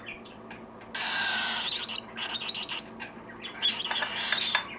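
Baby cockatiel giving raspy food-begging calls while being spoon-fed formula: one long call about a second in, then a run of shorter calls with small sharp clicks near the end.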